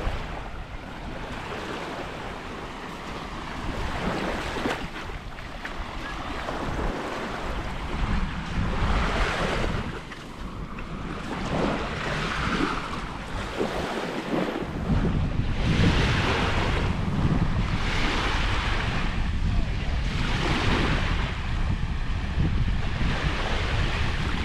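Small waves breaking and washing up on the shore, swelling in every couple of seconds. Wind buffets the microphone throughout, heavier from about halfway through.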